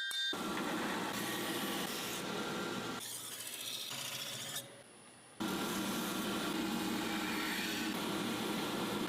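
Abrasive rubbing on a steel blade: a steady, noisy rasping with a faint steady whine behind it. It changes character about 3 seconds in, drops away briefly, and starts again about 5 seconds in.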